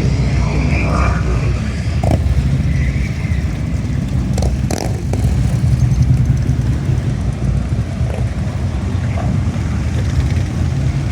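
Car engine running with a steady low rumble, with a few light clicks about halfway through.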